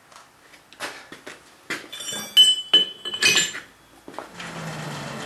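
Hammer blows on a blacksmith's anvil, light taps and then several harder strikes with a ringing metallic tone, while shaping a hot nail blank. About four seconds in a steady low hum with a rushing noise starts.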